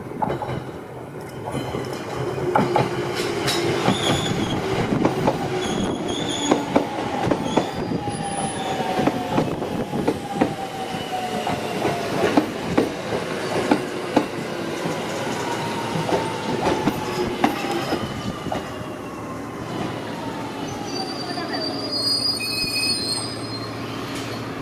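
Electric commuter train pulling into the platform and braking: wheels knock over the rail joints while a motor whine falls steadily in pitch as it slows, with high-pitched brake or wheel squeals near the end.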